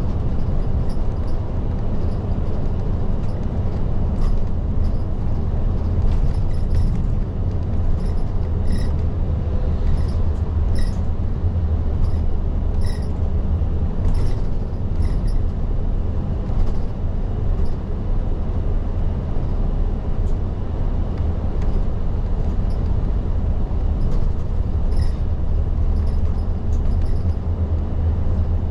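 Inside a diesel route bus under way (Isuzu Erga Mio, type LDG-KV234Q3): a steady low engine and road rumble, with small rattles and clicks from the cabin scattered throughout.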